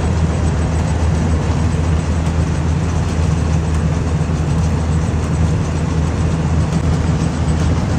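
John Deere harvester's diesel engine running steadily with a deep, even drone.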